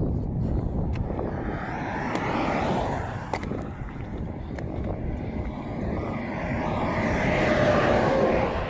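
Highway traffic passing close by: one vehicle goes by a couple of seconds in, then a louder one swells up and passes near the end, with a faint falling pitch as it goes by.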